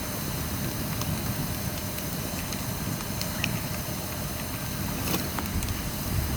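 Bamboo fire burning in a pail-can burner, with a steady low rumble and a few sparse crackling pops.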